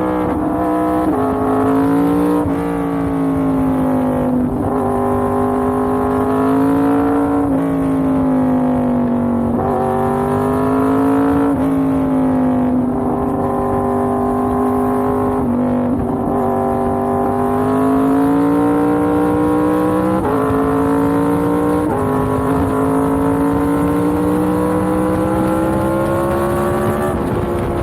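Yamaha MT-10's crossplane inline-four engine running under way, its note rising and falling with the throttle and stepping in pitch several times as it changes gear.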